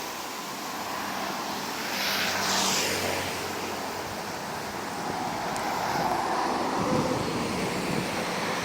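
Outdoor traffic noise: a vehicle passes about two seconds in, and the noise builds again from about six seconds in.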